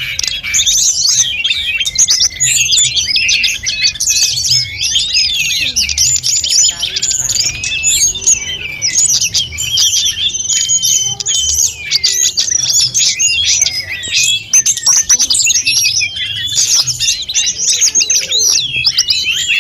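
Sulingan gunung (tledekan gunung) songbird singing a long, unbroken run of quick chirps and whistling phrases, packed with varied fill notes.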